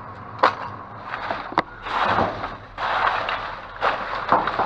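Packaged toys and plastic packaging being handled and sorted. There are sharp clicks and knocks, and two longer crinkling rustles in the middle.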